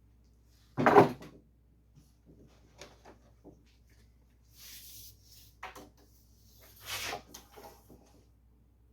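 Wooden knocks and clatter from truck-bed boards being handled and set in place: a loud knock about a second in, light ticks and scrapes, then a second knock near seven seconds.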